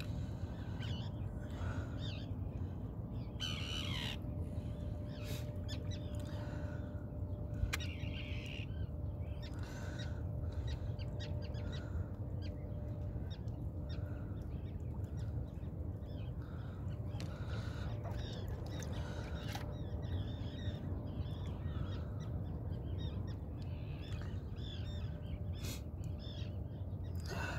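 Birds calling at scattered intervals, one call falling in pitch about four seconds in, over a steady low rumble.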